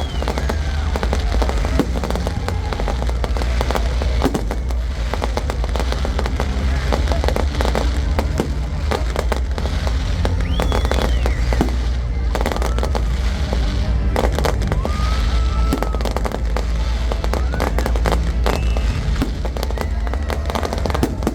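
Fireworks going off in rapid succession, a dense run of bangs and crackles over a continuous low rumble.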